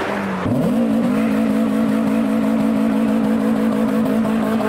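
Renault Clio hatchback's engine revved up sharply about half a second in, then held at high revs at a steady pitch while the car spins its wheels in a smoky burnout.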